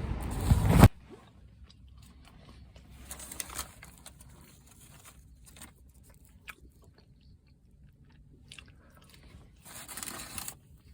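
Someone eating chips close to the microphone: soft biting and chewing with small clicks and two short louder bursts. A loud rush of noise cuts off suddenly about a second in.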